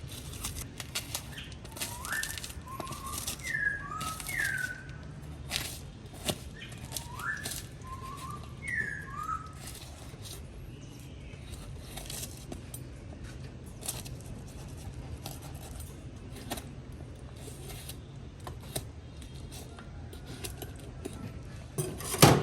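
Short whistled notes that sweep up and down, several in quick groups over roughly the first nine seconds, over scattered sharp clicks and taps and a steady low hum; one loud knock comes near the end.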